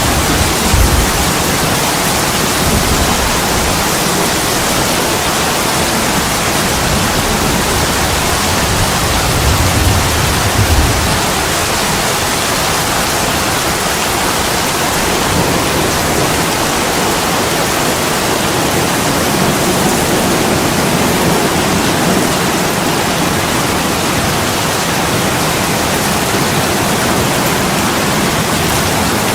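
Heavy rain pouring onto attic window glass, a loud steady hiss. Brief low rumbles come in the first second and again around ten seconds in.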